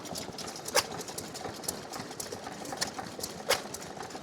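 Vintage stationary petrol engine running with sharp exhaust pops at uneven spacing, about one a second, over a steady background hum.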